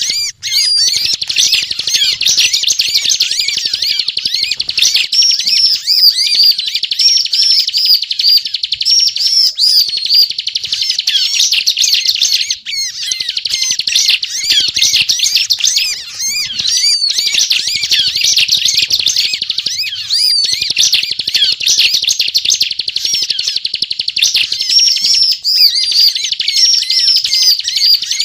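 Bar-winged prinia (ciblek) singing loudly in a rapid, almost unbroken stream of high chirps and trills, with only brief breaks.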